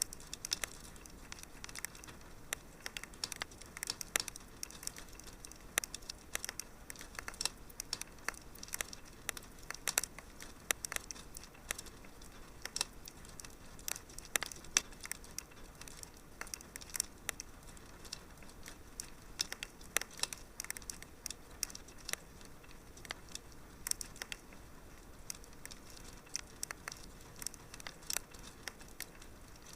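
Wood fire crackling: many small irregular pops and snaps over a soft steady hiss.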